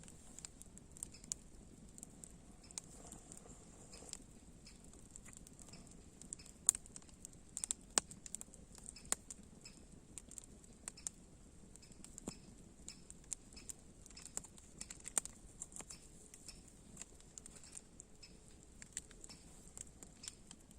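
Wood campfire crackling, with irregular sharp pops, a few much louder than the rest.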